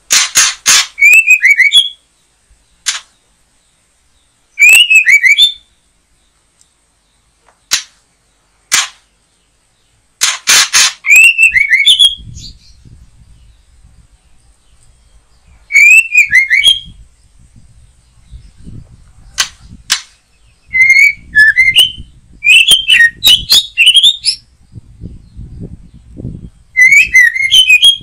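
White-rumped shama (murai batu) calling loudly in short phrases every few seconds: a harsh rattling chatter followed by quick whistled notes that dip and rise, with single sharp ticks in between.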